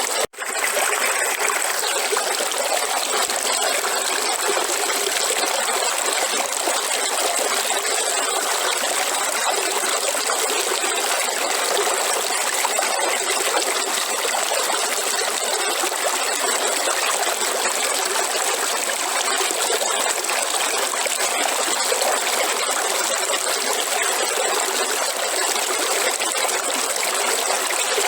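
River water flowing and rushing steadily over rocks, with a momentary drop-out just after the start.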